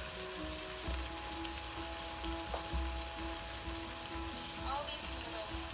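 Two eggs and rice noodles frying in oil in a nonstick pan: a steady sizzle, with music playing underneath.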